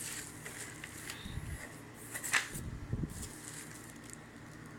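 Multicooker parts being handled and fitted together: a few soft knocks and one sharp click about halfway through.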